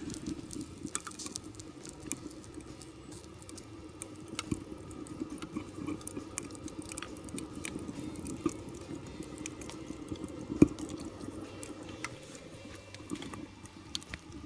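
Small twig-and-leaf fire crackling and popping in the fire base of a Ghillie kettle, with a low steady hum beneath. There is one sharper pop about ten and a half seconds in.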